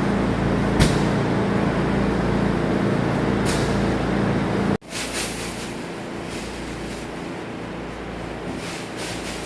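A motor running steadily with a low hum, with a few short clicks over it; about five seconds in the sound cuts abruptly to a quieter steady machine noise with scattered ticks.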